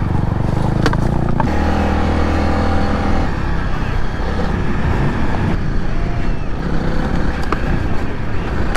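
Motorcycle engine running while riding a rough dirt track, with heavy wind rushing over the microphone. The engine note drops about a second and a half in and is then mostly buried under the wind noise, with a few sharp knocks from the rough ground.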